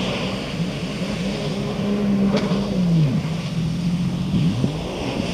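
Sea-Doo RXP 255 jet ski's supercharged three-cylinder four-stroke engine running, its pitch dropping and coming back up twice as the throttle is eased off and reopened. A single sharp click sounds about two and a half seconds in.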